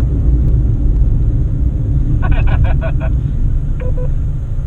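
Fiat Panda's engine and road noise heard from inside the moving car: a steady low rumble. A brief voice-like sound comes about two seconds in.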